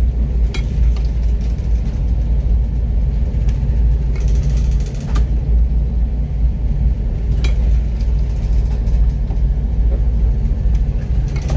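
Steady low rumble with a few short sharp knocks and clatters: a car-carrier ship rolling in rough seas, heard from on board with its cargo of cars shifting.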